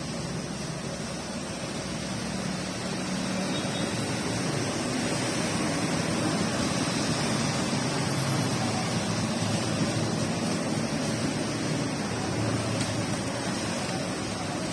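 Steady rain falling, an even hiss that stays constant throughout.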